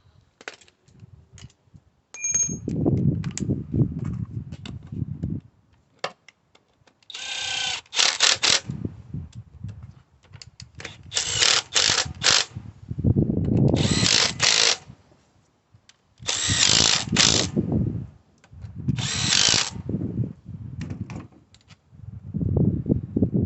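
Power tool, such as a drill/driver, running in repeated short bursts of a second or two, with clicks and clatter between the runs.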